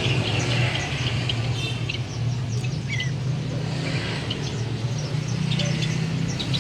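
Many short bird chirps and calls from several birds, scattered throughout, over a steady low hum.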